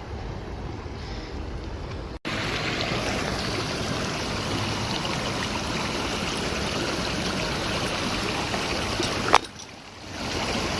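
Flowing stream water, a steady rushing and trickling noise that cuts off abruptly about two seconds in and comes back louder, with a brief dip near the end.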